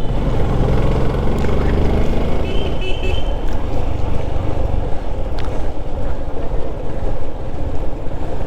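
Motorcycle on the move: steady engine and road noise, with a short horn toot about two and a half seconds in.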